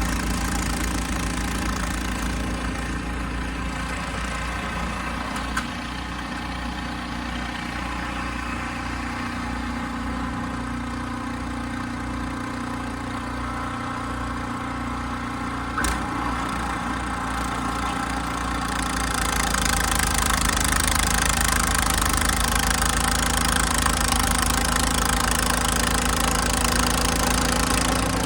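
Ariens snow blower's gasoline engine running steadily while clearing snow. It gets louder and hissier about two-thirds of the way through, and two short sharp clicks come near 6 s and 16 s.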